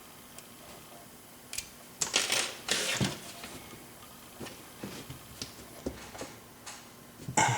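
Steel lock pick raking and clicking against the pin tumblers of a 7-pin Corbin Russwin mortise cylinder under tension: a quick cluster of rattling metallic clicks about two seconds in, then scattered light ticks, and a louder clatter near the end.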